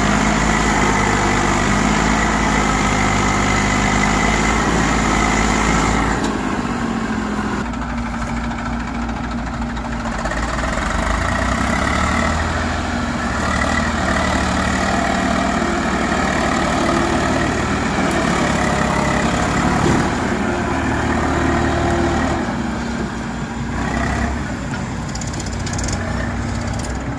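Tractor engine running under load; its note drops about six seconds in and picks up again a few seconds later.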